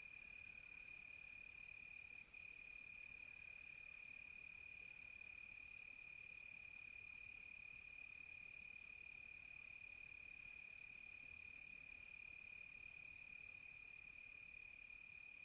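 Crickets chirping: one steady, unbroken high trill, with a second, higher trill coming in repeated stretches of about a second.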